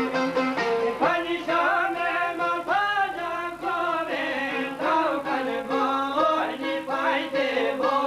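Albanian folk music: a heavily ornamented melody line that bends and wavers, over plucked strings and a steady held low note.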